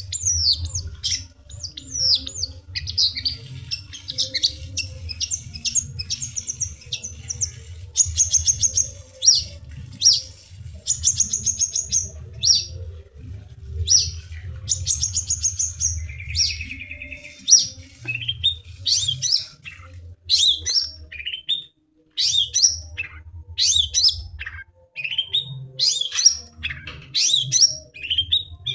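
Long-tailed shrike (cendet) singing a fast, varied song of chirps, trills and short whistled notes in near-continuous phrases, in full active song (gacor).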